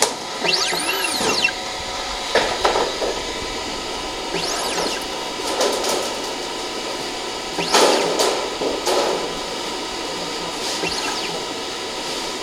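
Small drive motors in a Gaertner L115E ellipsometer whirring up and then back down in pitch, four or five times. Under them runs a steady machine hum with several fixed tones.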